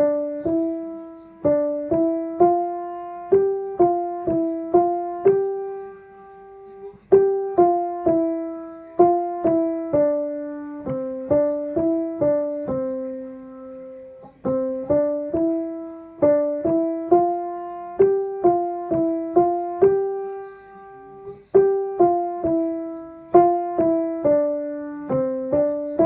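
Piano playing a simple two-part tune, a melody over a lower line, about two notes a second. It falls into four phrases, each closing on a longer held note.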